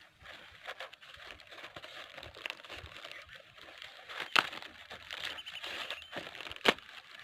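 Rustling, crinkling handling noise, with scattered small clicks and two loud sharp clicks or knocks, one about four seconds in and one near the end.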